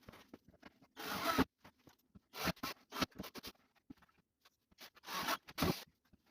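A run of short rasping, scraping strokes, each about half a second long and coming irregularly, with faint ticks and knocks between them.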